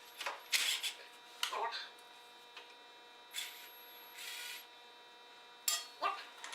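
Hand work on a lawn tractor's carburetor and fuel lines: a series of short scraping and rubbing sounds with a few small clicks, over a steady faint hum.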